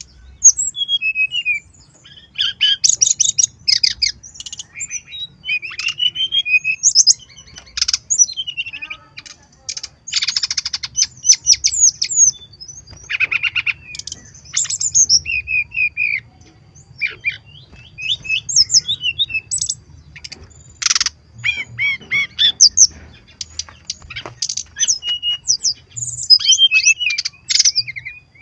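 Brown-chested jungle flycatcher (sikatan rimba dada coklat) singing a fast, varied song of high chirps, trills and buzzy notes, phrase after phrase with short pauses between.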